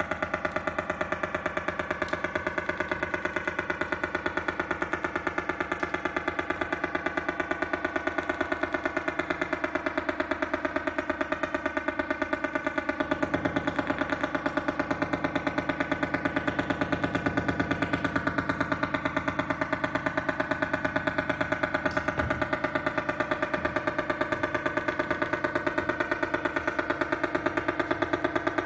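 Electronic sound translated from a line drawing: a steady drone of several held tones, pulsing rapidly and evenly, with a low rumble joining about halfway through.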